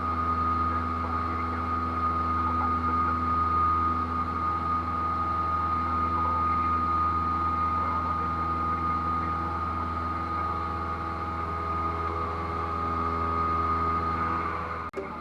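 Cessna 172's piston engine and propeller droning steadily inside the cockpit in flight, holding constant power. The drone cuts off abruptly just before the end.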